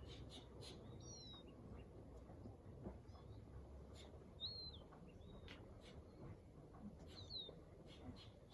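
Faint birdsong: short, curved, high chirps come every couple of seconds, some of them paired, with scattered soft ticks over a low, steady ambient hum.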